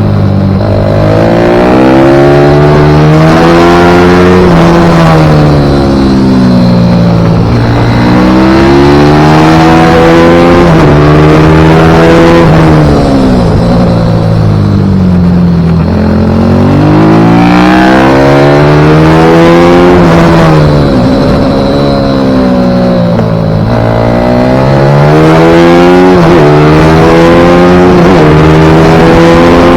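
Single-cylinder four-stroke pit bike engine at racing speed, revving up in steps through the gears and then dropping back under braking, about three times.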